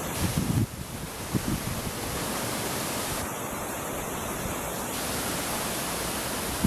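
Wind blowing against the microphone: a steady rushing hiss with irregular low buffeting thumps.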